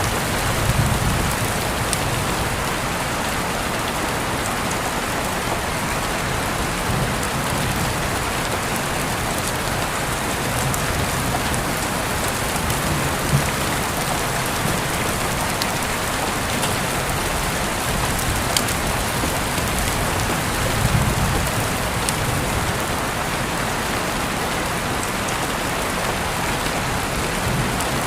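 Steady rain falling on a surface, with scattered sharp drip ticks close by. A low rumble swells about a second in and again about three-quarters of the way through.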